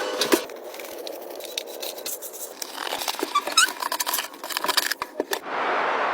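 A string of small clicks, taps and scrapes of things being handled, then a steady hiss that starts near the end.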